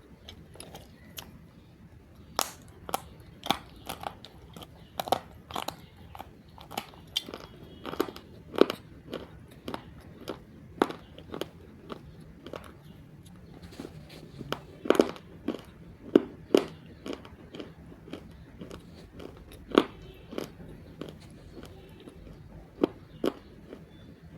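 Roasted multani mitti (Fuller's earth clay) being bitten and chewed: a run of sharp, irregular crunches, about one or two a second, starting a couple of seconds in.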